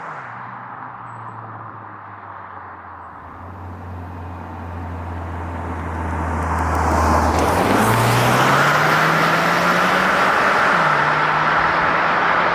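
Hyundai Sonata N Line's 2.5-litre turbocharged four-cylinder under acceleration through its eight-speed dual-clutch gearbox. The engine note drops with an upshift at the start and holds low, then jumps up about seven seconds in and climbs steadily as the revs build, with road and wind noise swelling. It drops again with another upshift near the end.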